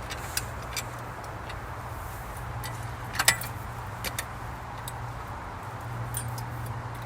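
Scattered sharp metal clicks and clinks of hand tools working the bar-clamp adjustments on a Granberg Alaskan chainsaw mill, the loudest about three seconds in, over a steady low hum.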